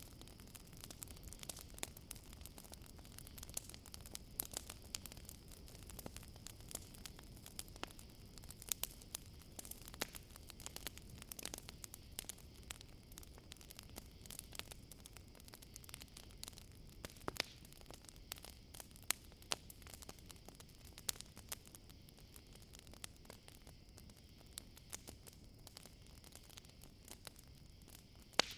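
Campfire wood burning with many irregular crackles and small pops, over a steady high chirring of crickets.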